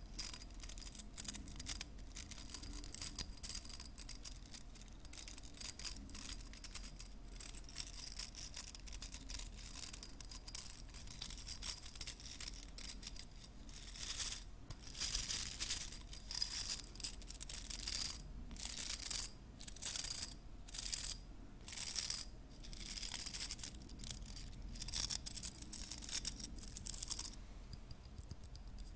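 Hairbrush bristles being brushed and scratched in a soft, crackly rustle. About halfway in it turns into distinct, louder brush strokes, roughly one or two a second, which stop shortly before the end.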